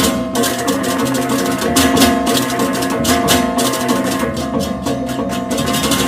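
Balinese gamelan music: held metallic gong tones under fast, clashing cymbal and drum strokes in a driving rhythm.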